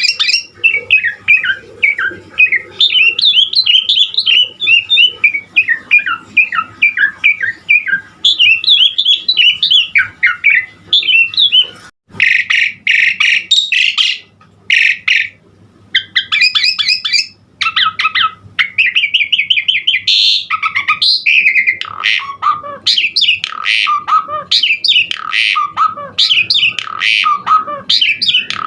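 Javan pied starling (jalak suren) singing a long, varied song of rapid whistles and chattering notes. From about halfway it shifts to louder, harsher phrases broken by short pauses.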